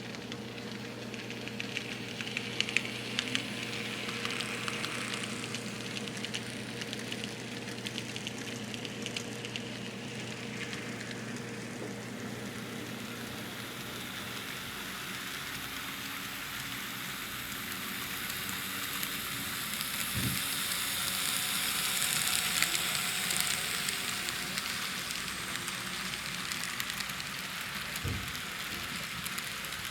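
N scale model trains running on Atlas code 55 track, their wheels rolling over the rails with a fine, sizzling rattle. A steady electric hum fades out about halfway through, and the hiss grows louder a little after.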